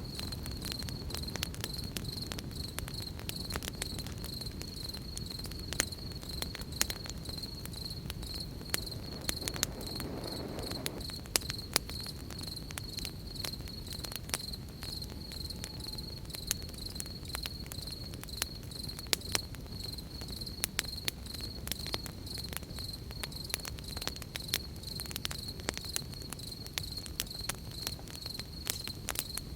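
Crickets chirping in a steady, fast-pulsing high trill, over a campfire crackling with frequent sharp pops.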